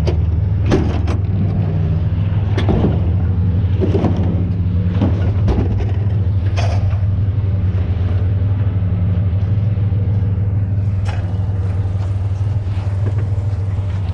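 Steady low rumble of an idling vehicle engine, with scattered knocks and clatters as a refrigerator is yanked out of a truck bed; most of the knocks come in the first half.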